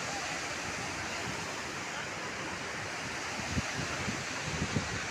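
Steady rush of a waterfall, with a few low thumps of wind buffeting the microphone in the second half.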